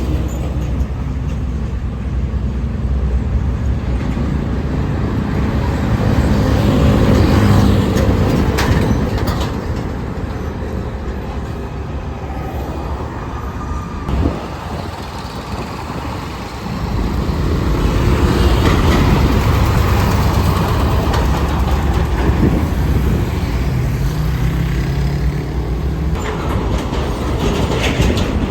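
Heavy vehicles passing close by: a continuous deep engine rumble that swells as one goes past about six seconds in, eases off in the middle, and swells again from about eighteen seconds.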